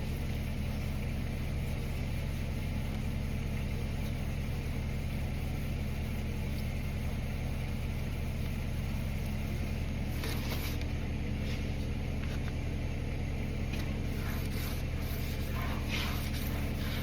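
A steady low mechanical hum runs throughout. Faint scrubbing strokes from wet sanding fresh tractor paint with wet/dry sandpaper on a foam sponge pad come through over it about ten seconds in and again near the end.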